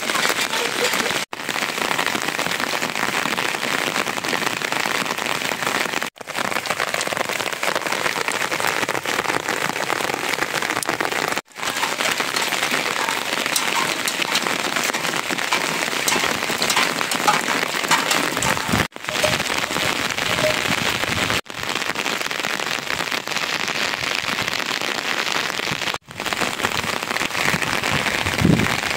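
Steady rain falling, a continuous hiss and patter that drops out for an instant several times.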